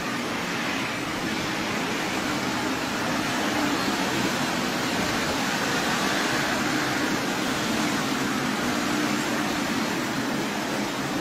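Moving train running along the track: a steady rushing noise with a faint low hum.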